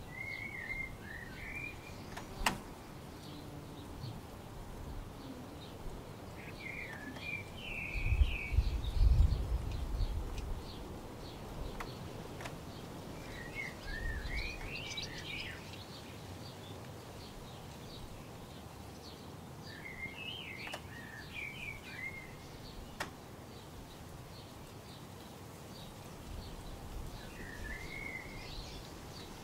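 A songbird singing a short warbled phrase again and again, about every six or seven seconds. A low rumble about eight seconds in is louder than the song.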